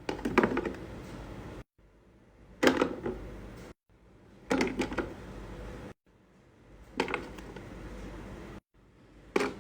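Small skincare bottles and jars being handled and set into a mini fridge: a few light clicks and knocks, then soft handling noise, in short stretches that each cut off suddenly.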